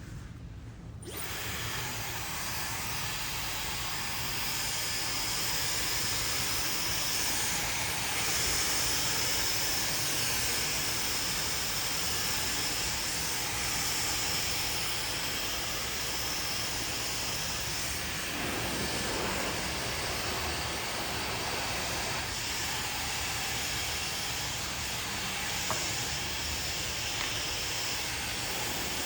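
Handheld hair dryer switched on about a second in and blowing steadily, an even airy hiss.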